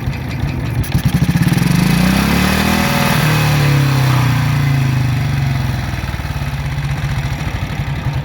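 A motorcycle engine running. It gets louder about a second in, its pitch rises and then falls around three seconds in, and it eases back to a lower, steadier note.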